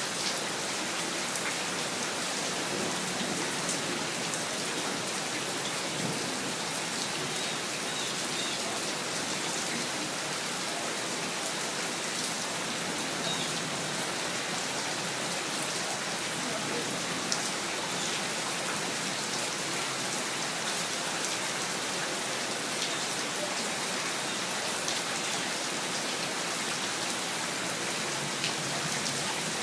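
Steady rain falling: an even hiss with scattered sharper drop ticks, no thunder.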